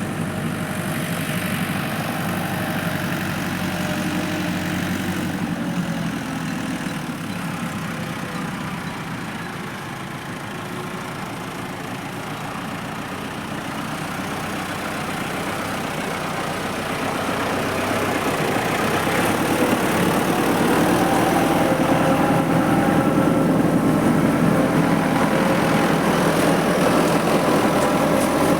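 Tractor engine running steadily, growing louder about two-thirds of the way through.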